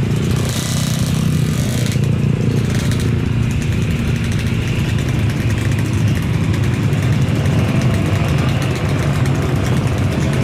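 Jet aircraft engines running: a steady, loud low rumble with a faint high whine above it.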